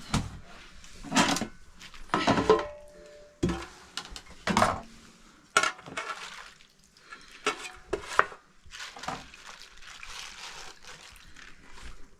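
Metal pots and dishes being handled: a series of irregular knocks and clatters, one with a brief metallic ring.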